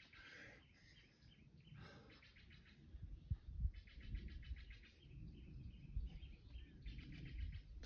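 Small birds chirping and giving short rapid trills, several phrases in a row, over a low rumble with two dull thumps a little past the middle.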